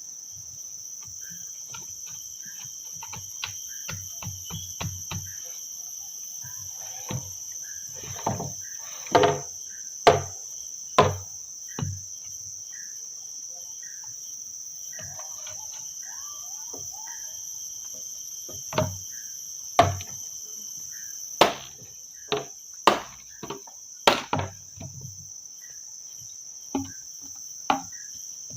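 Steady high-pitched chorus of crickets or other forest insects, with irregular sharp knocks scattered through it, some coming in quick succession.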